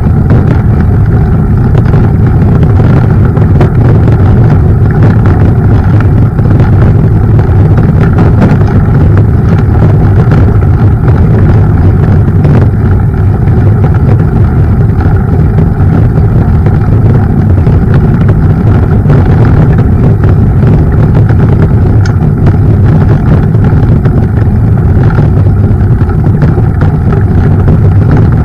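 Mountain bike riding along a trail: a loud, steady wind rumble on the camera microphone, with the bike's light rattles and knocks over the bumps.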